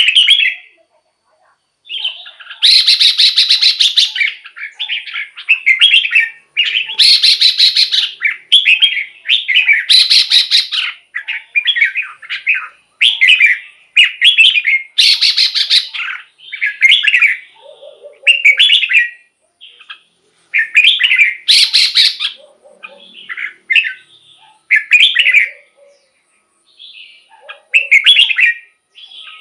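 Red-whiskered bulbul singing: short, loud warbled phrases repeated roughly once a second with brief pauses, several of them louder and buzzier than the rest.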